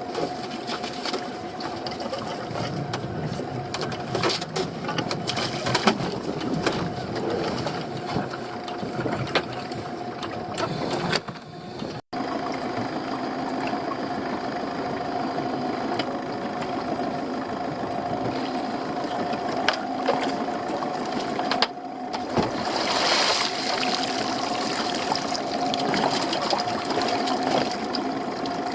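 Small fishing boat's outboard engine running steadily at idle, with scattered knocks and clicks over it in the first part.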